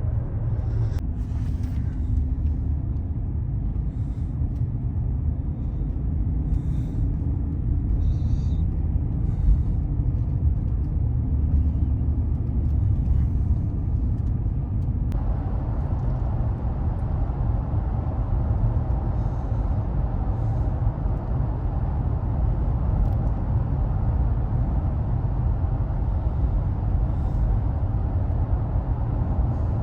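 Steady low rumble of a vehicle driving, with engine and road noise heard from inside the cab; a higher road hiss comes up about halfway through.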